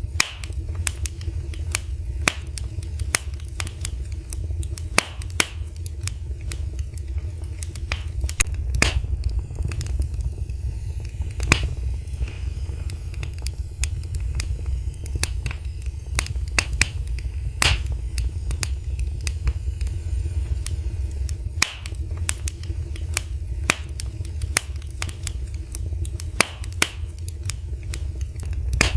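Wood fire in a fireplace crackling: frequent irregular sharp pops and snaps over a steady low rumble.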